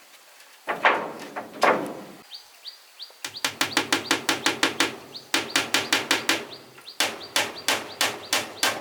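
Two heavy wooden knocks, then, from about three seconds in, rapid runs of hammer blows on wood at about five strikes a second, with short pauses between runs. A bird chirps briefly just before the hammering starts.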